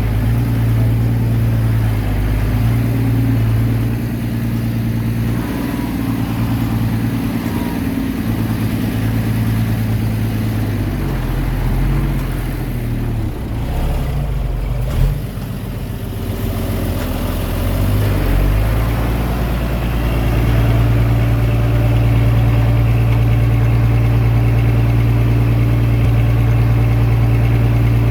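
Diesel engine of a Komatsu D21A mini bulldozer running steadily. Its note drops and wavers about halfway through, then climbs back and holds steady, a little louder, for the rest of the time.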